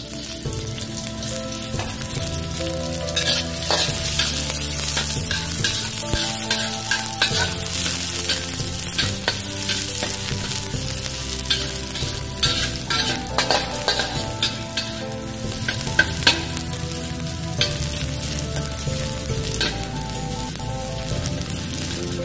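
Sliced shallots sizzling as they fry in hot oil in a wok, with a metal spatula scraping and clacking against the pan now and then as they are stirred.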